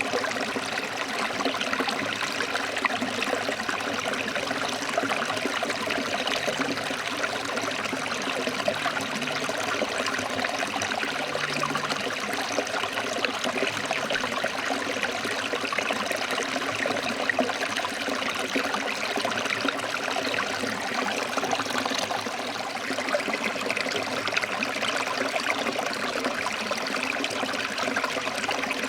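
Forest stream flowing over rocks: a steady rush and trickle of running water.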